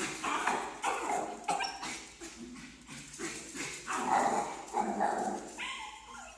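Schnoodle barking and yipping in many short bursts in quick succession: the aggressive outburst of a leash-reactive dog.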